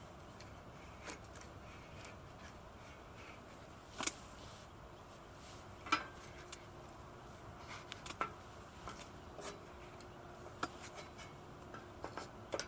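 Scattered light clicks and knocks over a faint steady background, with two sharper knocks about four and six seconds in and a run of small ones near the end.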